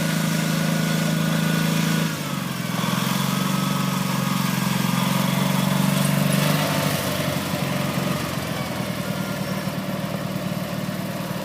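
Garden tractor engine running steadily while plowing; its pitch drops suddenly about two seconds in, and near the end the note weakens and turns uneven as the engine slows.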